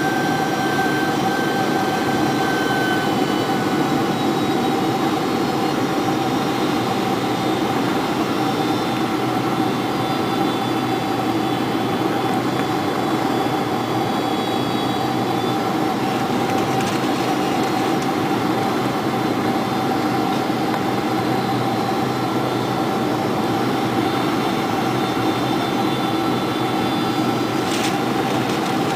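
Cabin noise of a Boeing 747-400 on final approach: a steady rush of engine and airflow with a constant high whine from the jet engines.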